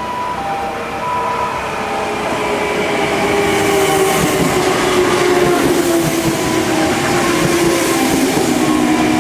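Kintetsu electric train running into the station alongside the platform, getting louder as it draws near, with wheels rumbling on the rails. A humming tone from the train falls slowly in pitch as it slows.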